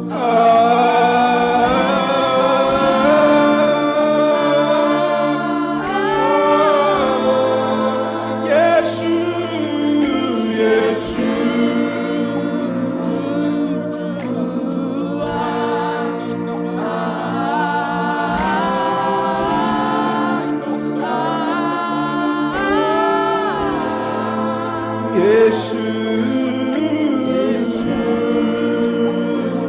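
Live gospel worship music: voices singing a slow, gliding melody over sustained held chords.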